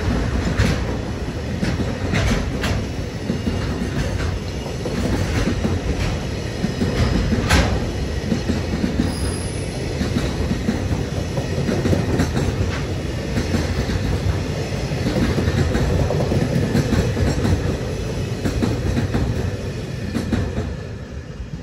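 Freight train's container wagons rolling past: a steady rumble of steel wheels on rail, with sharp clicks now and then, easing off near the end as the tail of the train passes.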